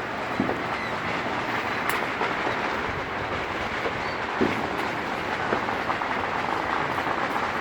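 Dense, continuous crackling of many fireworks and firecrackers going off at once, merging into a steady rushing roar, with a few sharper pops standing out.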